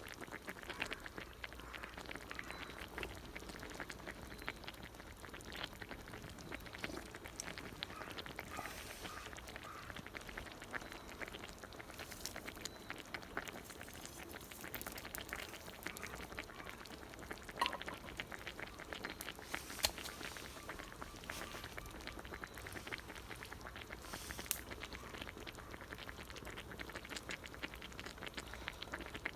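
Campfire crackling: a continuous, irregular patter of small pops and snaps from burning firewood, with a few sharper pops along the way.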